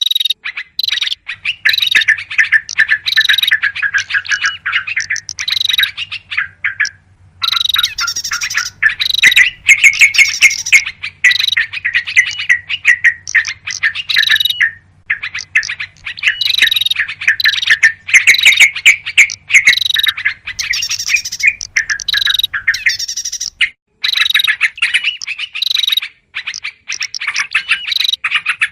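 A loud bird-lure recording of small songbirds chattering and calling in rapid, agitated phrases, led by the noisy scolding of yellow-vented bulbuls mixed with other small birds. A faint low hum runs under it and stops about four-fifths of the way through.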